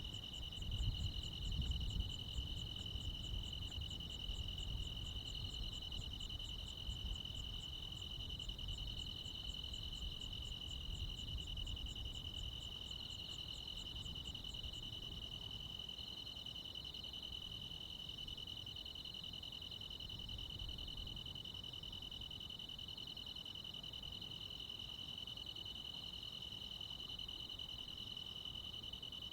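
Crickets and other insects chirring steadily in a summer night chorus. A faster, higher pulsing call runs alongside and stops about halfway through.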